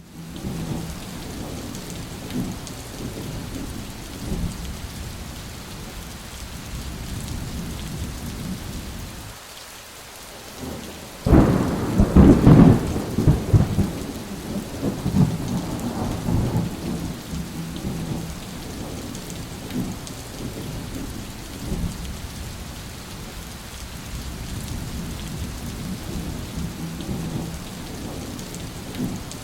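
Steady rain with low rolling thunder. About eleven seconds in, after a brief lull, a sudden loud thunderclap hits and rumbles on for a few seconds before the rain settles back.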